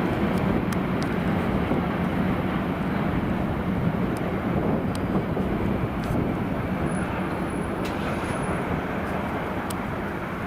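A passing train rolling on the rails: a steady rumble and rush of wheels with scattered light clicks, slowly fading.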